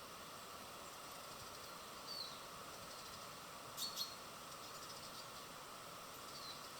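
Outdoor ambience at a bird feeder: a few short, high, falling bird chirps, one about two seconds in and one near the end, over a steady hiss with a constant insect-like drone. Two sharp clicks come close together just before the middle.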